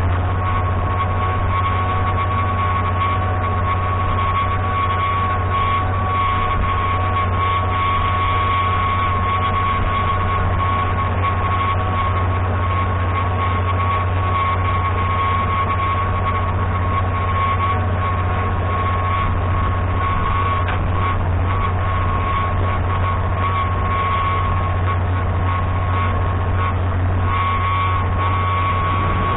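Galion 503 grader's UD-236 diesel engine running steadily while warming up after a cold start. A steady high whine sits over the deep engine note.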